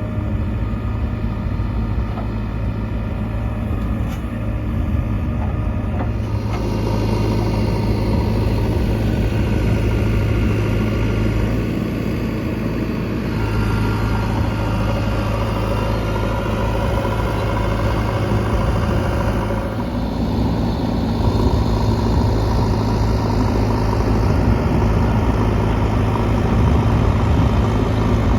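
Diesel engine of a JCB 3DX Xtra backhoe loader running steadily while it works. The engine picks up and grows louder about a quarter of the way in and again about three quarters of the way in.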